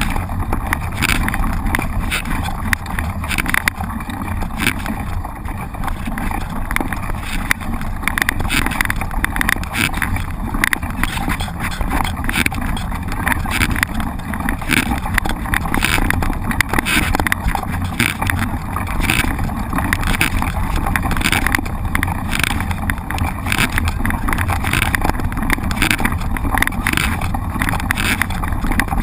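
Mountain bike ridden over a rough trail, recorded on a camera riding along: steady wind rumble on the microphone with frequent irregular clicks and rattles from the bike.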